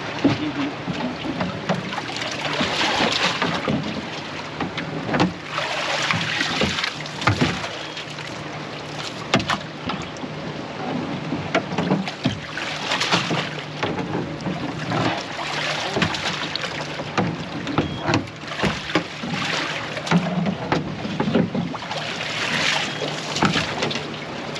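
Small fishing boat on the sea: a steady motor hum under rushing wind and water that swell and fade every few seconds.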